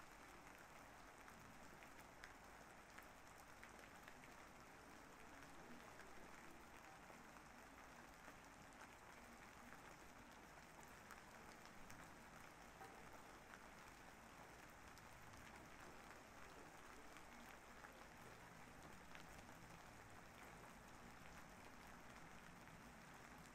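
Faint, steady rain, with scattered small drop ticks.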